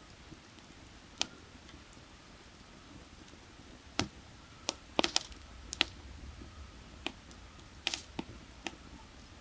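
Burning firewood crackling: irregular sharp pops and snaps, several in quick succession about halfway through and again near the end, over a faint steady rush of a nearby creek.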